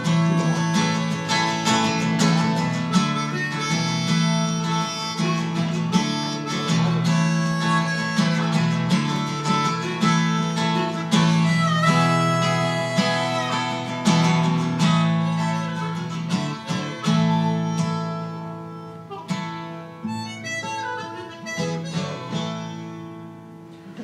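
Harmonica and strummed acoustic guitar playing the instrumental close of a song, slowing and fading over the last several seconds as the final chord rings out.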